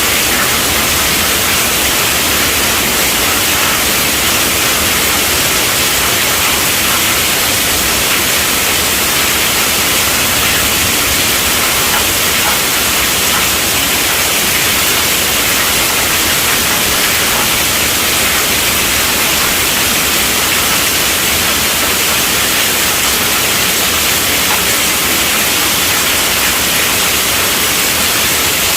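Heavy rain falling steadily on a tent roof, an even, dense hiss with no let-up.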